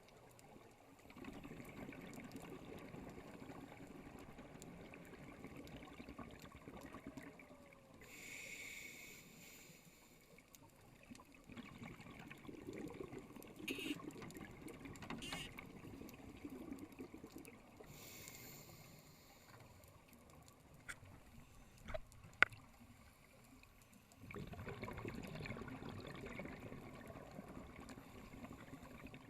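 Scuba diver breathing through a regulator underwater: a short hissing inhale, then a long bubbling exhale, repeating about every ten seconds. A few sharp clicks come about two-thirds of the way through.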